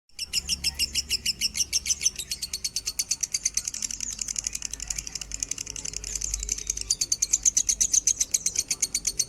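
Lovebird singing a long, unbroken rapid chatter of high chirps, about nine a second, kept up without a pause: the extended 'minor' song that Indonesian bird keepers play as a model for their own birds.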